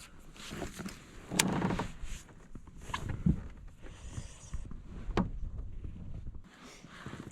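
Wind buffeting the microphone on a kayak, a low rumbling noise, with a few sharp knocks and clatters of gear against the boat: the loudest about a second and a half in, smaller ones around three and five seconds in.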